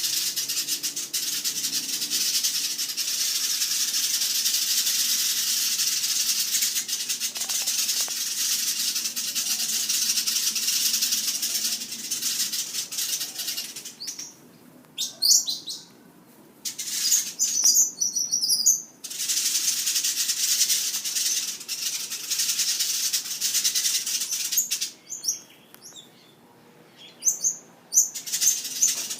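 Backyard birds: a dense, high chattering haze, then separate short chirps in quieter stretches, with the sound cutting in and out abruptly several times.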